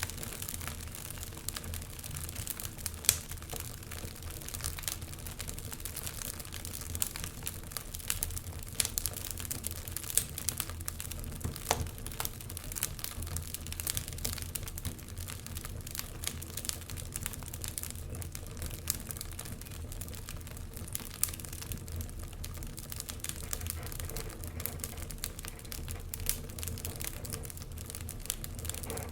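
Wood fire crackling in a fireplace: irregular snaps and small pops over a low steady rumble, with one louder pop about three seconds in.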